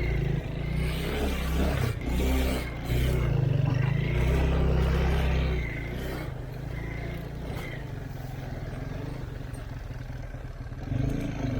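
Off-road vehicle engine running under load and revving, loud for the first half and then dropping to a steadier, quieter running about six seconds in.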